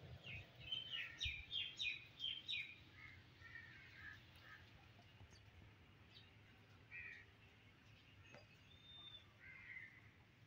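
Birds chirping faintly: a quick run of about eight chirps in the first three seconds, then scattered calls and a short whistle near the end.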